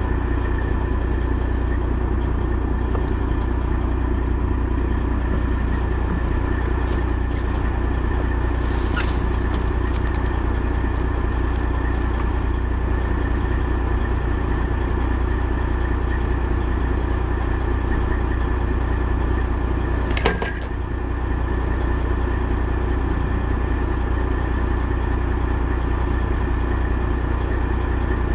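Semi truck's diesel engine running steadily, a constant drone with a single sharp click about twenty seconds in.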